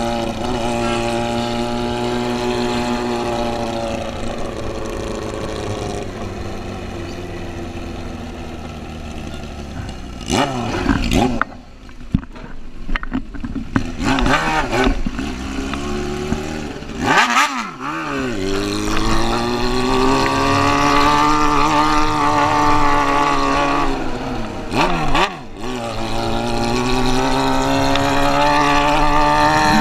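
Motorcycle engine revving up and down while riding, its pitch falling and rising several times as it accelerates and slows. A few short bursts of rushing noise cut across it.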